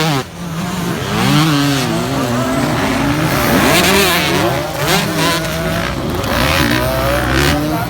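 Several motocross dirt bike engines racing, their pitch rising and falling over one another as the riders rev up and back off.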